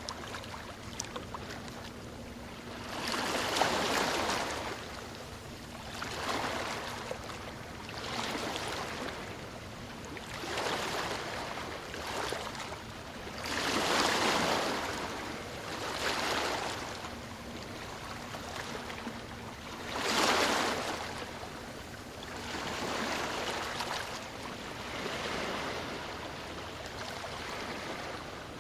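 Ocean waves washing onto a shore in repeated surges, one every two to three seconds, a few of them louder than the rest.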